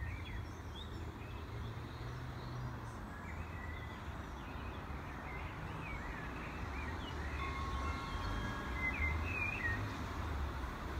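Low rumble of an approaching Class 155 Super Sprinter diesel multiple unit, still distant and growing slightly louder in the second half, with small birds chirping briefly over it.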